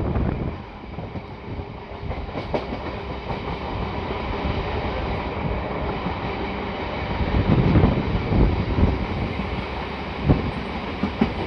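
Indian express passenger train running along the track: steady rumble and rattle of the coach, with a few sharp wheel knocks, one about ten seconds in.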